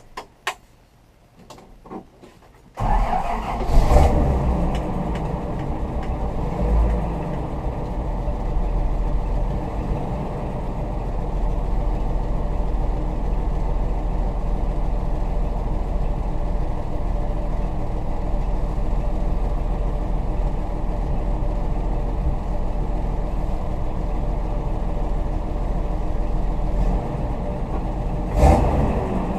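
1978 Toyota Land Cruiser FJ40's inline-six petrol engine on a cold start. A few clicks come first, then the engine catches suddenly about three seconds in, rises briefly a second later and settles into a steady idle. It revs briefly once more near the end.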